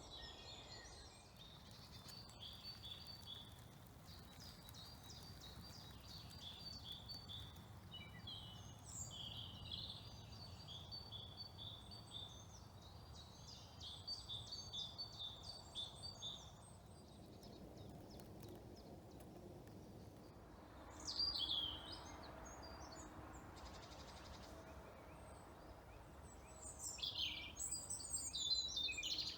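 Woodland birds singing: repeated short, high chirping phrases throughout, with louder bursts of song about two-thirds of the way in and near the end, over a faint low background rumble.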